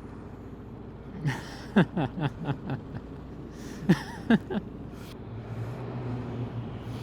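A person laughs in two short bursts of quick chuckles, each falling in pitch, over a steady low rumble. A low, steady hum comes in near the end.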